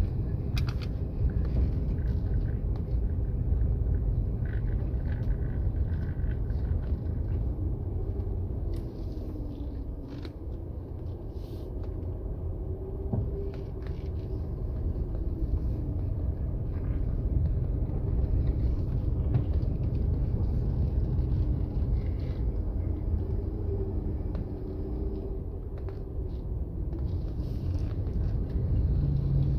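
A vehicle driving along with a steady low rumble. Its engine note rises and falls a few times as the speed changes.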